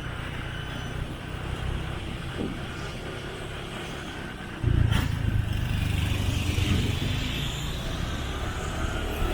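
Motorcycle running along a road: a steady low rumble that suddenly gets louder about halfway through, with a sharp click just after.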